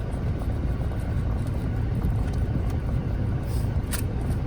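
Steady low rumble of a car, with a couple of faint clicks near the end.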